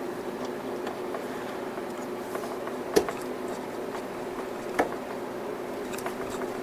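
Two sharp clicks of hand tools or parts knocking against metal, about two seconds apart, with a few fainter ticks, while a fitting is being worked out of the power steering pump. A steady low hum runs under them.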